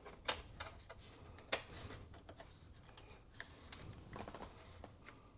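Scattered light clicks and taps of small parts being handled and fitted inside an opened iMac, with two sharper clicks, one just after the start and one about a second and a half in.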